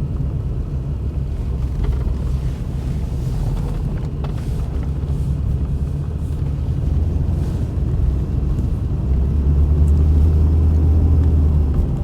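Pickup truck driving, a steady low rumble of engine and road noise that grows louder about nine seconds in.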